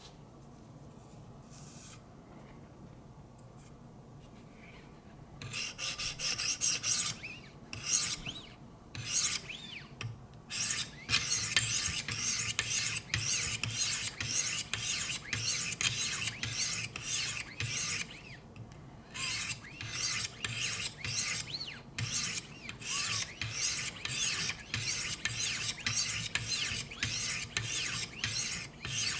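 600-grit diamond stones of a Wicked Edge guided sharpener scraping along an S90V steel knife edge in short back-and-forth strokes, about one to two a second. The first few seconds are quiet.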